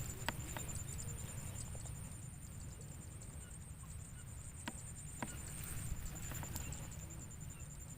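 Faint outdoor ambience: a steady, high-pitched pulsing trill over a low rumble, with a few light clicks.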